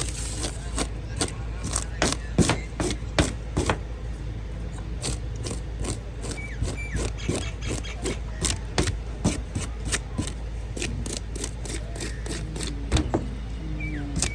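Knife chopping on a wooden cutting board: a quick, uneven run of sharp knocks, several a second, over a steady low hum.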